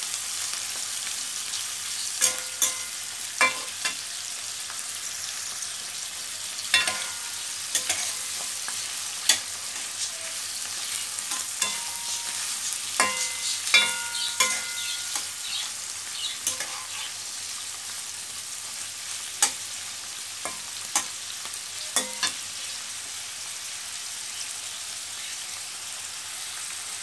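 Prawns and chopped onion sizzling in hot oil in a kadai, with a steel spatula scraping and knocking against the pan as they are stirred. The knocks come irregularly, a few with a short metallic ring, and thin out near the end while the sizzling goes on.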